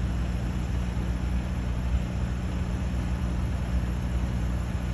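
A vehicle engine running steadily: a continuous low hum under a haze of noise.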